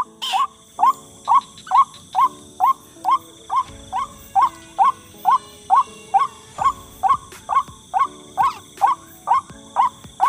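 White-breasted waterhen call: a steady run of short, rising "kwak" notes, about two to three a second, over a faint steady high-pitched whine.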